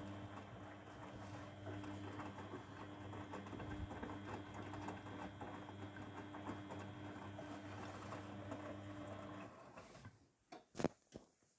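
Grundig washing machine drawing water at the start of its cycle: a steady hum from the inlet valve with water running in. It cuts off about nine and a half seconds in, followed by a few sharp clicks.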